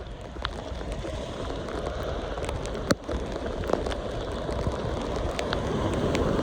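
Steady heavy rain, with scattered raindrops ticking close by and one sharper tick about three seconds in.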